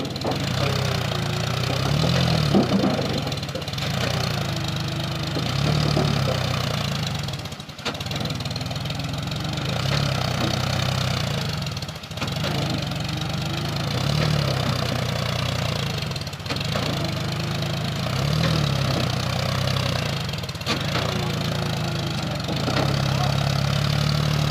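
Tractor diesel engine under load, its pitch rising and falling about every two seconds as it is revved again and again, straining to pull a brick-laden trolley that is stuck in the mud after rain.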